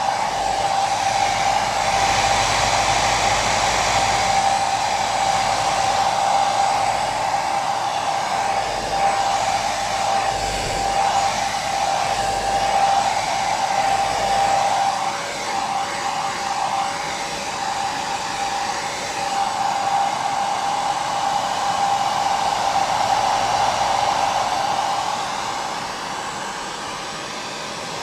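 Hair dryer running continuously: a steady rushing of air with a constant whine from the fan motor.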